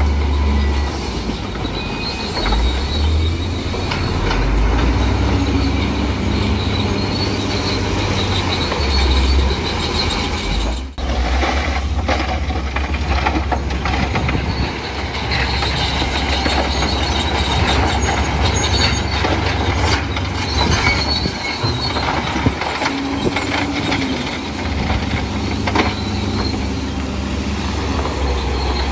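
Crawler bulldozer working: its diesel engine running steadily with the clanking, grinding metal noise of its steel tracks. The sound drops out briefly about eleven seconds in.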